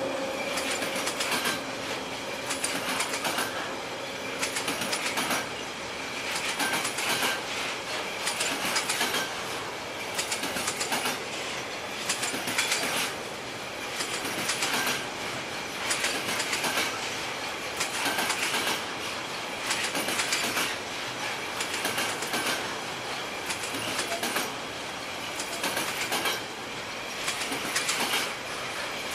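Container wagons of a long freight train rolling past at steady speed, the wheelsets clattering over rail joints in a regular clickety-clack, with faint brief wheel squeals now and then.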